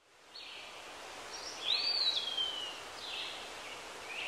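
Woodland ambience fading in, with a bird calling: a few short calls and, about a second and a half in, a clear whistle that rises briefly and then slides slowly down.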